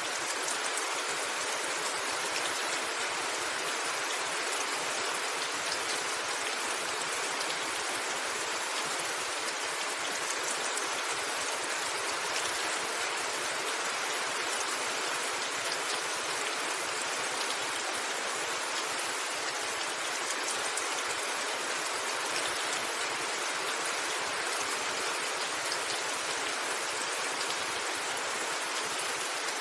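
Steady rain falling on a roof: an even, unbroken hiss with no thunder.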